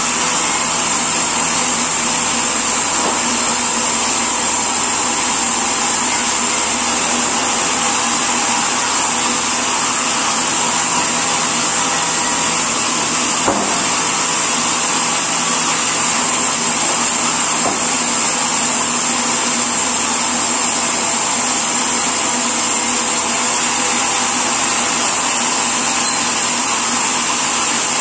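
Sawmill machinery running steadily, a loud continuous mechanical noise with a high whine, and a single click about halfway through.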